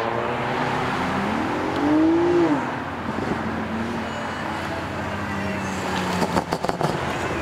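A car engine revving up as it pulls away, climbing in pitch to its loudest about two seconds in, then easing off to a steady lower drone. Near the end comes a quick run of sharp crackles.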